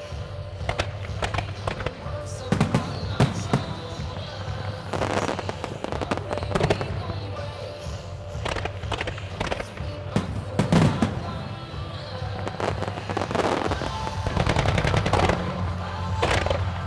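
Starmine fireworks barrage: shells bursting one after another in quick, irregular bangs, some in close clusters, with crackling between them. Music plays underneath.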